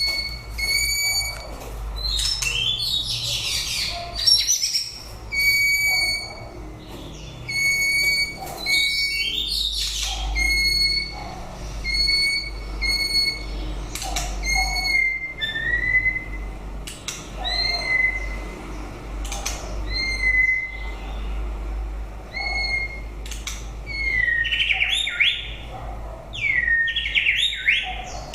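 White-rumped shama singing: a run of short, clear whistled notes repeated about once a second, broken now and then by fast sweeping phrases, which come thicker near the end.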